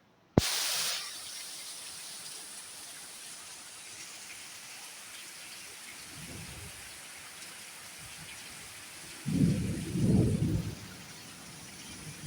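Steady heavy rain with thunder: a faint low rumble about six seconds in, then a louder rolling rumble about nine seconds in that lasts nearly a second and a half. Near the start, after a brief drop-out, there is a sharp crack with a short hiss.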